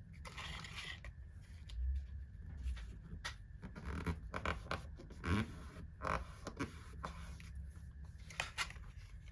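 Irregular light clicks, taps and scrapes of small parts being handled, over a low steady hum.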